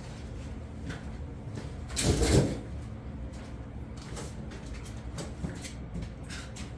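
Handling noise from heavy tool parts being moved: a loud scrape or rumble lasting about half a second, about two seconds in, with scattered light knocks and clicks around it.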